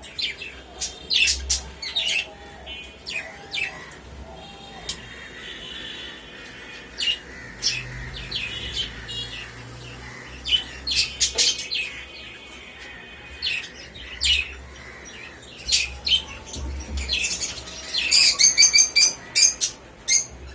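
Several kept birds chirping and squawking, many short sharp calls scattered throughout, with a fast run of repeated chirps near the end.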